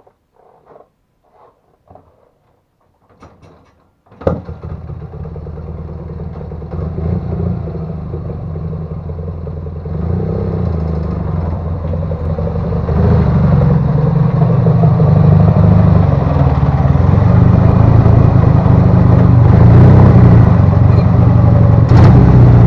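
Ural motorcycle's IMZ 8.103.10 boxer-twin engine starting suddenly about four seconds in, after a few faint clicks and rustles. It then runs and gets steadily louder as it is revved or ridden off.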